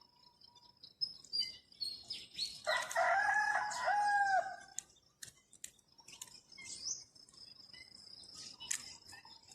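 A red junglefowl cock crows once, about two seconds long, starting near the third second. Small birds chirp around it, over a steady high insect buzz.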